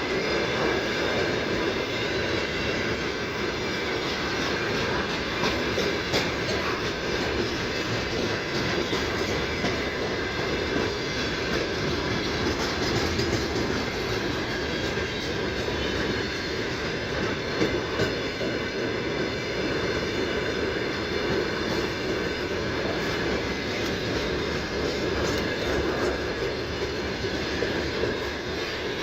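Freight train rolling past on the rails: a steady rumble of wagon wheels with occasional faint clicks.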